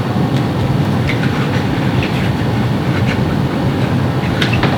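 A steady low rumble with faint, scattered light clicks over it.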